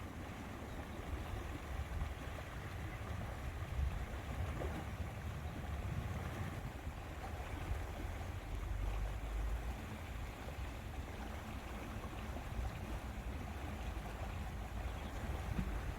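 Lake water lapping with wind buffeting the microphone, a steady, unbroken outdoor wash with a strong low rumble.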